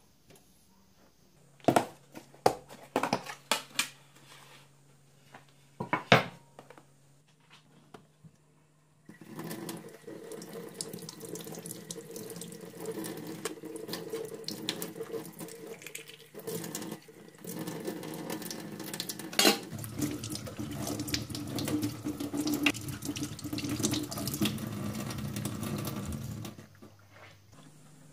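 A few sharp knocks, then a kitchen tap running into the sink for about seventeen seconds. About halfway through the running the sound turns deeper, and it stops shortly before the end.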